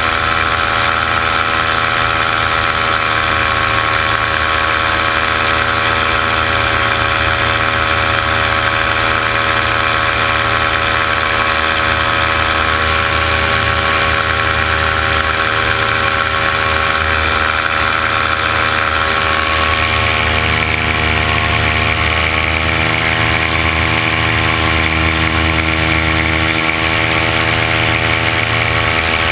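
Multirotor drone's motors and propellers whining steadily, with a shift in pitch about twenty seconds in as the drone changes speed.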